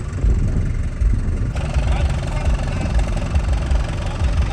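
A truck engine running at idle with a low, uneven rumble. About a second and a half in, a steady wider noise joins it.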